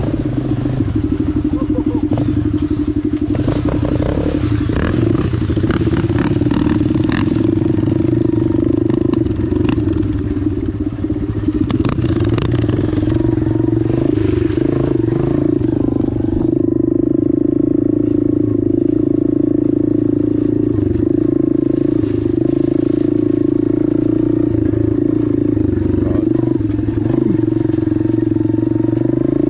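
Dirt bike engine running steadily at a fairly constant pitch while riding over rocky ground, with scattered clattering knocks.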